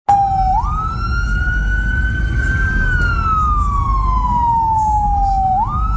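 Emergency vehicle siren on a slow wail: the pitch jumps up, climbs, then falls slowly over about three seconds, and jumps up again near the end, over a low rumble.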